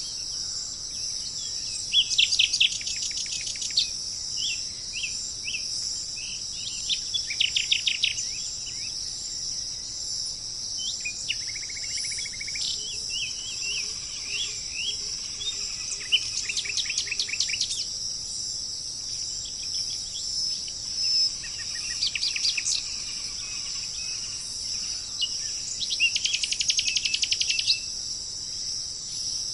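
Songbirds singing short, rapid trilled phrases that recur every few seconds, over a steady high-pitched chorus of insects.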